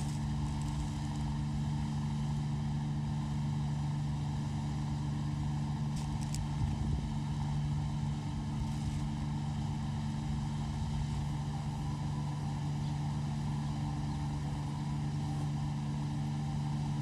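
A steady, unchanging low engine hum, with a couple of faint clicks about six seconds in.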